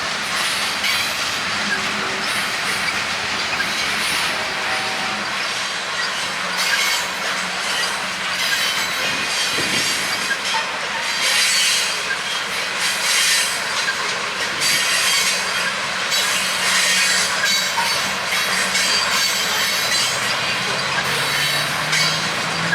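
Freight train cars rolling past at close range, with steel wheels squealing and scraping against the rails and clicking over rail joints. A low hum rises slowly in pitch near the end.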